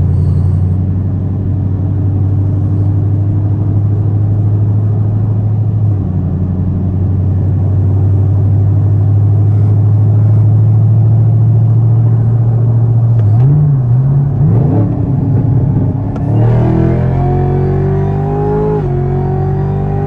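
Camaro ZL1's supercharged V8 engine holding a steady cruising drone. About thirteen seconds in, the revs bob up and down. Then it accelerates hard, the pitch climbing, dropping once at a gear change and climbing again.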